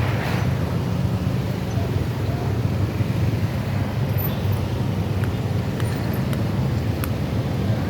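Long train rolling past a level crossing: a steady low rumble, with a few faint clicks about five to seven seconds in.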